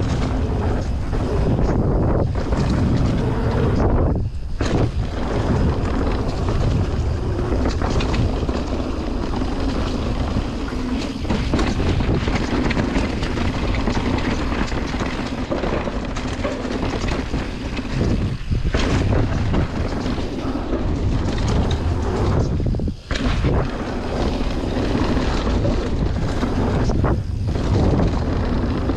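Wind rushing over the microphone of a mountain bike rider's camera, over a steady rumble from the bike on the trail, with a few brief dips in level.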